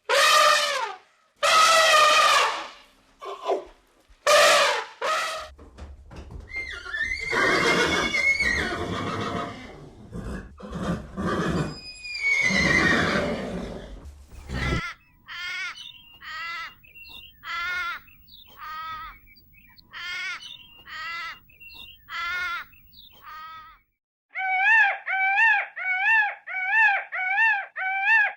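Animal calls, one after another: a few loud cries, then long quavering calls over a low rumble, then a run of short repeated calls, and near the end rapid high-pitched calls about two a second.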